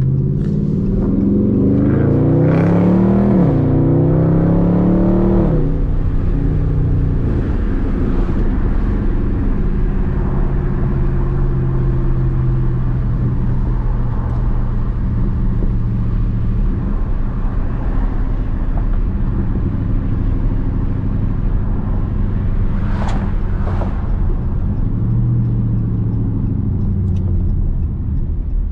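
Dodge Charger Daytona 392's 6.4-litre HEMI V8 accelerating, its pitch rising, dropping at an upshift about three seconds in and rising again. It then settles into a steady cruising drone with road noise.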